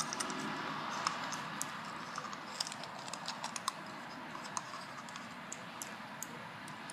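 Light, irregular clicks and crinkles, thickest in the first few seconds and sparser after, over a steady background hiss: hands handling and shaping the material of a fake grill.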